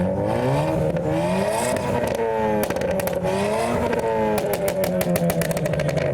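Ford Fiesta ST Mk7's 1.6 turbo four-cylinder engine revved hard on the spot, its pitch climbing and dropping several times, with rapid crackling exhaust pops in the second half.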